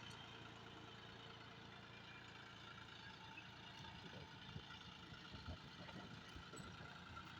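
Faint, steady engine running, with a few soft knocks about halfway through.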